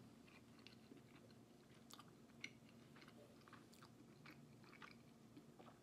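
Faint chewing of a mouthful of fusilli pasta, with soft wet mouth clicks scattered throughout, over a low steady hum.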